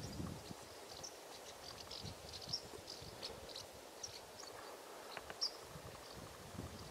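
Faint open-country ambience: small birds chirping in short, scattered high calls over a low rumbling noise.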